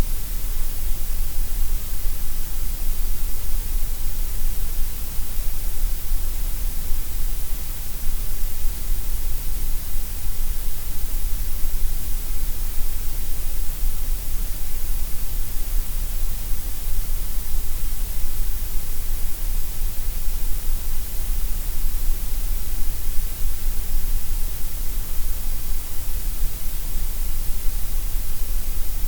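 Synthetic gray noise: a steady, unchanging hiss, heavier in the deep bass and the high treble than in the middle.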